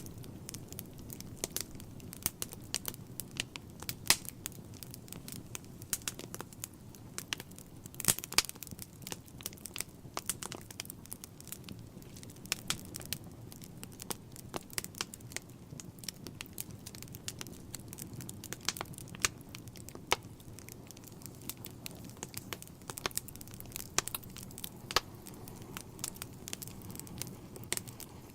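Wood fire burning in a fireplace, crackling and popping irregularly over a steady low rumble of the flames, with a few sharper pops.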